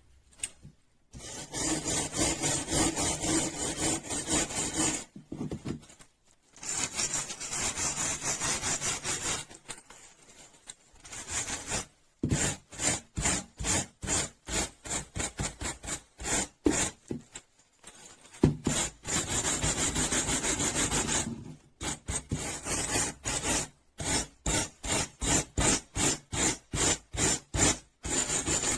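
Rust being scraped off a metal wrench by hand with an abrasive tool, in steady back-and-forth strokes. It comes in spells of a few seconds with short pauses between, and later in quicker separate strokes about three a second.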